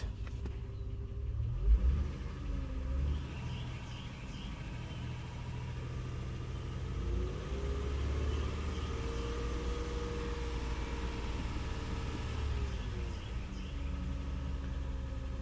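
The 2006 Honda Odyssey's 3.5-litre V6 idling, a steady low rumble heard from inside the cabin. A fainter tone rises about seven seconds in and drops back near the end.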